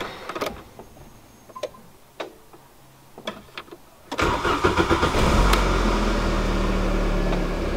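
A few small clicks from the ignition key and switches. About four seconds in, the Mk3 Volkswagen Golf's engine cranks briefly, catches and settles into a steady idle. This is the first start after fitting new spark plugs, plug wires and an air filter, and the engine runs.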